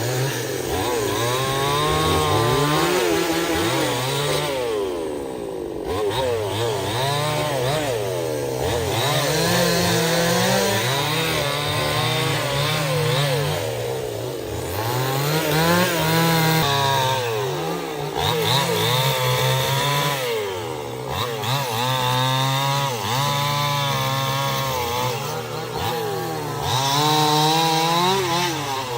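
Chainsaw running and cutting wood, its engine pitch rising and falling again and again as the chain bites into the cut and eases off.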